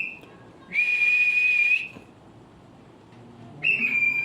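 Cockatiel whistling: two long, steady, high whistles about a second each, with a short pause between, the pitch lifting slightly at the end of each.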